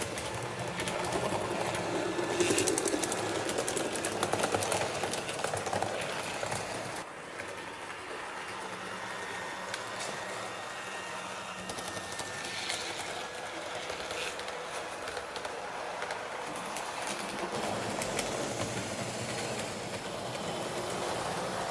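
A train running along the track: a steady rolling noise with scattered clicks and a faint thin high tone in the first half, easing off somewhat about seven seconds in.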